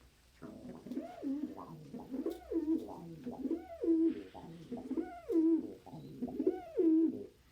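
Pigeons cooing: a steady run of short coos that swoop up and down in pitch, about two a second.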